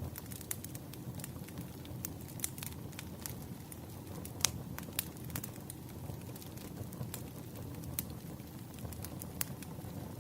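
Wood fire crackling, with irregular sharp pops over a steady low rumble; the loudest pop comes about four and a half seconds in.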